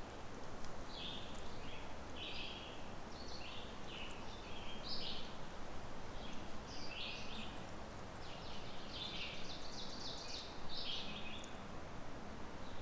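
Songbirds calling over and over in the woods, short overlapping calls coming every second or so, over a steady background hiss.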